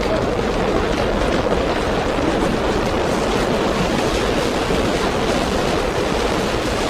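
Steady, loud rumble of a subway train in motion, an even noise with no distinct knocks or tones.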